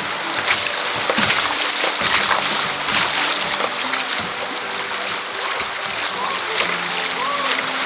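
Kayak paddle strokes splashing over the rush of moving creek water, with low sustained tones of background music underneath.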